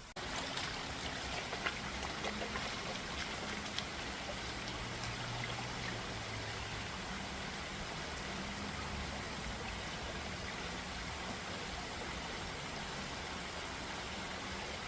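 Forest stream flowing: a steady wash of running water.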